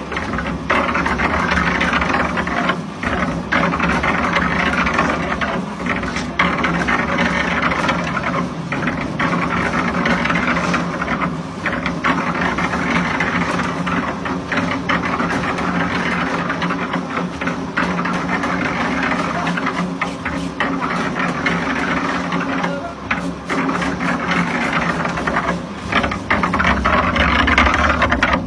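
A motor-driven machine running steadily, a continuous hum with a rattling, churning noise over it.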